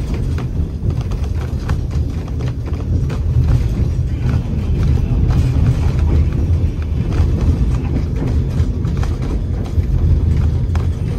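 Narrow-gauge White Pass & Yukon Route passenger car rolling along the track: a steady, loud rumble of wheels on rail with irregular clicks and knocks from the wheels and the rattling car.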